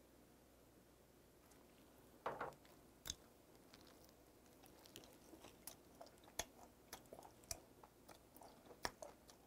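A person chewing a mouthful of spicy braised pork trotter (bul-jokbal), heard as soft wet clicks and smacks about twice a second from around four and a half seconds in. Before that, a short breathy sound and then a single sharp click.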